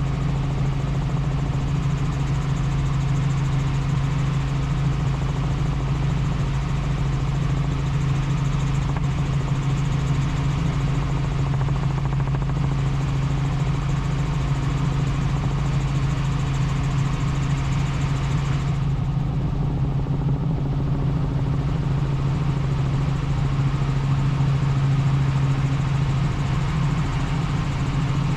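Helicopter in flight: a steady drone of rotor and engine with a strong constant low hum and an even hiss above it, the hiss dipping briefly about two-thirds through.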